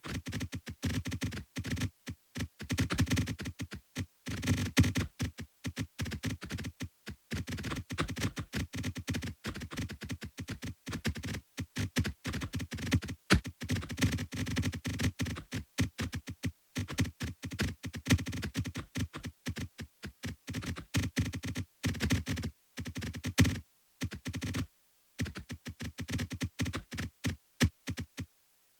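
A rapid, irregular stream of short electronic clicks and blips from a synthesizer, with a few brief pauses.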